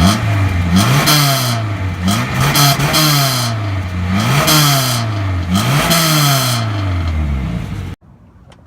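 1996 Chevy Cavalier's engine revved about five times, each rev climbing quickly and dropping back more slowly, through its stock exhaust with the muffler still on. The sound cuts off suddenly near the end.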